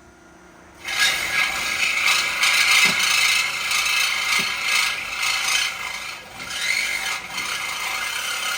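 A shop power tool, of the ratcheting air-tool kind, running hard: it starts suddenly about a second in and keeps going, with short dips in loudness a little past halfway.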